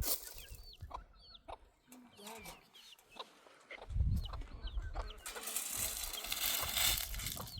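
Chickens clucking, with many short high chirps repeated throughout. A rushing noise rises over the second half.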